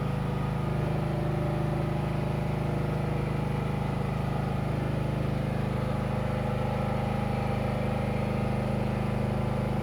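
A vehicle engine idling steadily at an even pitch, with a fast regular pulse.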